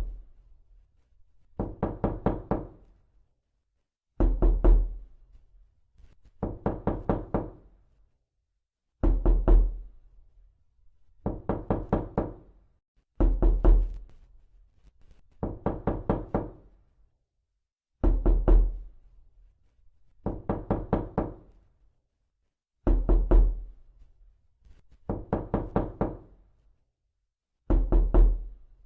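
Knocking in bursts of several quick knocks, a burst about every two and a half seconds, alternating a louder burst with a deep thud and a somewhat lighter one, repeating evenly.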